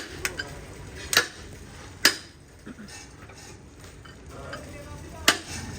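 Metal tools and parts knocking and clinking against each other in a few sharp, irregularly spaced strikes, the loudest about two seconds in and again near the end, over a low workshop background.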